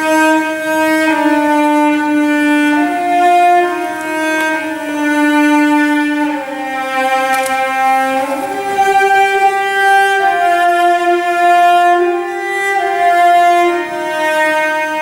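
Slow music played on a bowed string instrument: a single melody of long, held notes.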